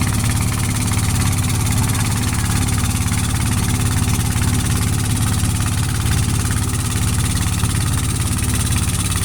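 Boat engine running steadily at a low, even speed, with a fast regular thudding.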